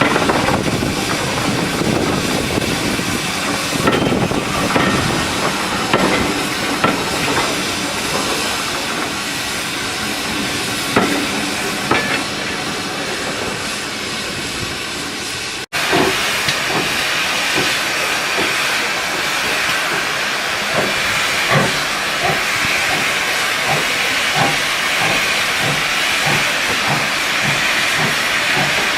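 Steam locomotive hissing steam, with scattered knocks, in two clips joined by a sudden cut about halfway through. In the second clip a steady rhythm of beats, about one and a half a second, comes in near the end.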